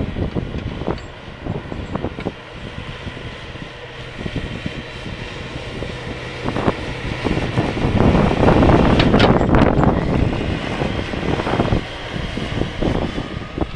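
Snowplow vehicle running while plowing snow: a steady engine hum with scattered knocks and rattles, and a louder rushing noise for a few seconds past the middle.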